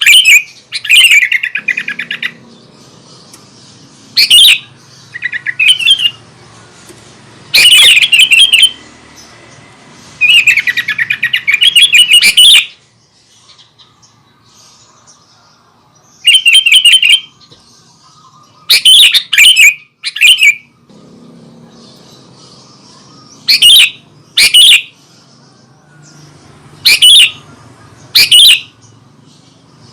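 Sooty-headed bulbul singing in loud, repeated chattering phrases, each half a second to two seconds long, with short pauses between them.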